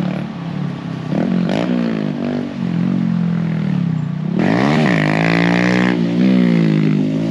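Motorcycle engine idling, blipped briefly about a second in and revved harder about four and a half seconds in, the pitch climbing and falling back to idle.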